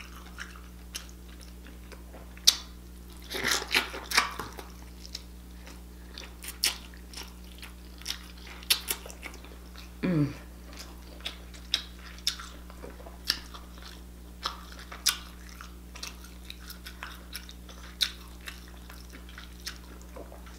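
Close-miked eating sounds of king crab legs in seafood sauce: wet chewing, lip smacks and sharp crackly clicks scattered throughout, busiest around four seconds in.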